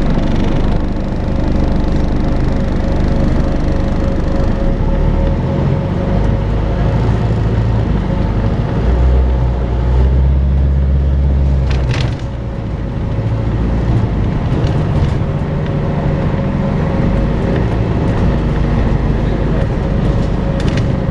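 Volvo B5LH hybrid double-decker bus running, with its steady vacuum-cleaner-like whine ('hoovering') held over the engine and road rumble. The low engine note swells about halfway through, followed by a sharp knock.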